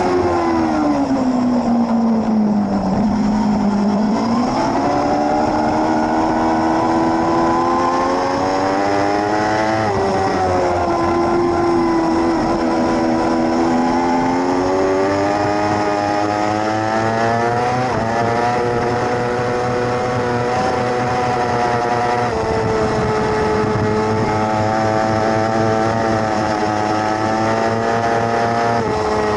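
600cc racing motorcycle engine at high revs. Its pitch falls over the first three seconds, then climbs again, with a sudden drop in pitch at each of about four upshifts.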